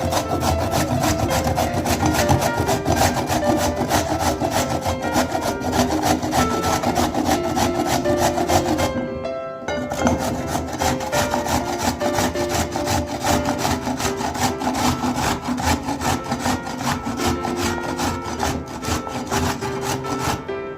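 Rapid repeated scraping strokes, typical of a hand grater shredding vegetables, with a short break about nine seconds in, over background music.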